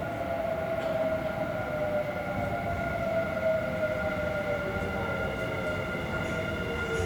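Electric commuter train's traction motors whining, with several tones sliding slowly downward in pitch over a rolling rumble as the train slows.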